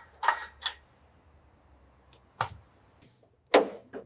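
Sharp clinks and knocks of tools on the exhaust as a new muffler is fitted and tightened: about five separate strikes, the loudest about three and a half seconds in.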